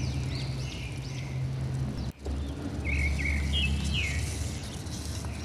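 Small birds chirping outdoors: repeated short, high chirps in two bursts, over a steady low rumble.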